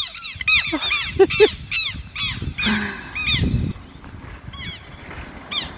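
Southern lapwings (quero-quero) giving loud, rapid, repeated alarm calls, several overlapping, thinning out to a few calls after about three and a half seconds. These are the birds' territorial alarm calls. A brief low rumble sounds about three and a half seconds in.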